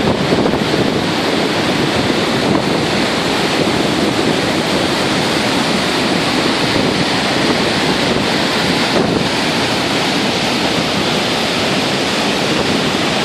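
The roar of Gullfoss waterfall, a steady rush of heavy falling water, with wind buffeting the microphone.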